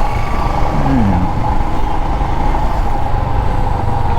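Royal Enfield Himalayan's single-cylinder engine running steadily as the motorcycle is ridden slowly through traffic, heard from a camera on the bike.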